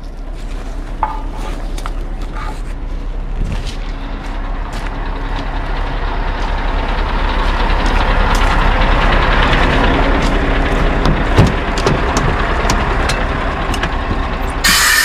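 Scania R580 truck's V8 diesel running steadily, with a hiss that builds up and eases off, scattered clicks, and a sudden loud hiss starting near the end.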